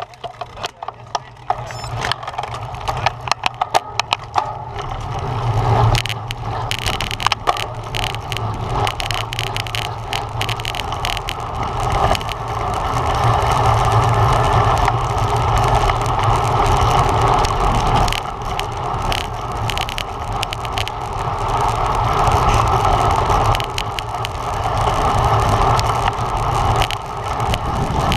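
Road bike in motion heard from a bike-mounted camera: wind rushing over the microphone along with tyre and road noise, swelling and easing as the speed changes. A run of sharp clicks fills the first several seconds before the rushing becomes steady.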